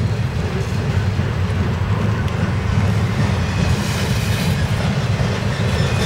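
Intermodal freight cars, carrying containers and trailers, rolling past on steel wheels: a loud, steady rail rumble.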